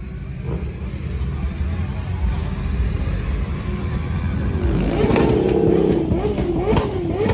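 Nissan Skyline's engine running with a steady low rumble, then revved up and down a few times from about five seconds in.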